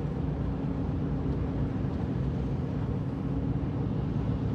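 Steady low rumble of a four-wheel-drive vehicle's engine and tyres cruising at about 40 mph on a snow-covered road, heard from inside the cabin.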